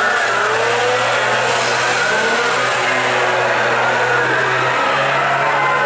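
Chainsaw engines running steadily and loudly, with no pause.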